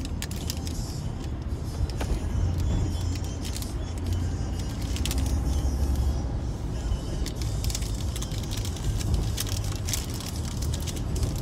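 Car cabin noise while driving: a steady low road and engine rumble, with scattered sharp ticks throughout.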